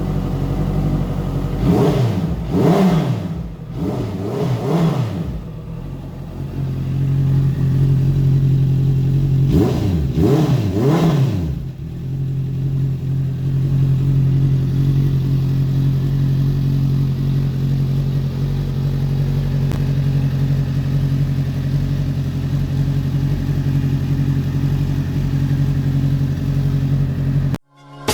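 A 2015 Honda CB650F's 649 cc inline-four, fitted with a Delkevic aftermarket exhaust, idling steadily. It is blipped twice a couple of seconds in and twice more about ten seconds in, each rev rising and falling quickly before settling back to idle. The sound cuts off abruptly near the end.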